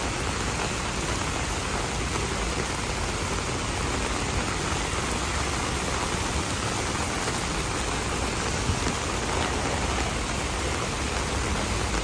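Steady rain falling on wet paved sidewalks and street, an even, unbroken hiss.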